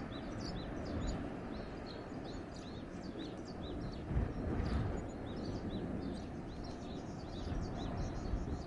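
Wind blowing with a low rumble, while small birds give many short, high chirps throughout.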